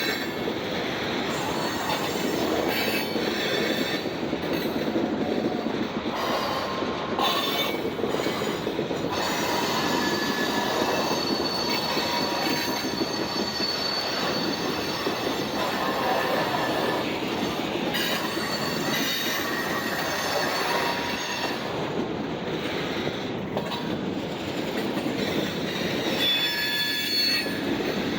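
Portland and Western Railroad freight cars rolling by, a steady rumble of steel wheels on rail with thin, high wheel squeals coming and going throughout.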